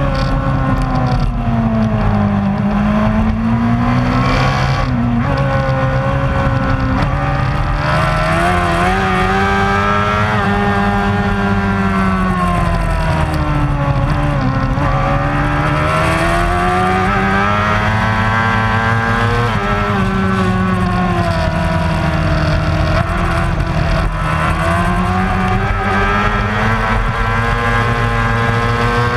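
Racing motorcycle engine at high revs. Its pitch climbs and falls repeatedly as it accelerates and slows, with sudden drops about five seconds in and near twenty seconds.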